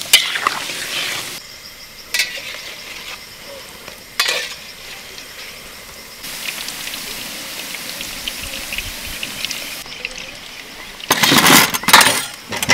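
Food sizzling as it fries in a pan, stirred with a metal utensil. There are occasional sharp clinks of the utensil on the pan and a louder burst of scraping and clattering near the end.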